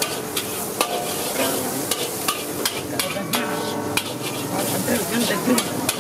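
Egg bhurji frying and sizzling in a large wok as a metal spatula stirs and scrapes it, with sharp clicks of the spatula against the pan about twice a second.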